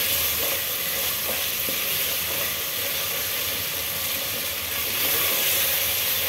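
Onion, tomato and ginger-garlic masala sizzling in hot oil in a metal pot, with a spatula stirring and scraping through it to loosen the paste stuck to the bottom. A steady frying hiss with a few faint spatula clicks.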